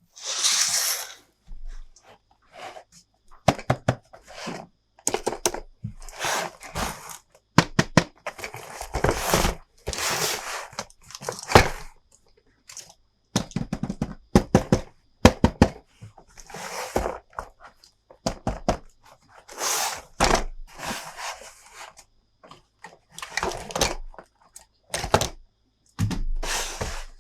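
A toy playset's packaging being handled and opened, with irregular knocks and thunks mixed with short bursts of tearing and crinkling.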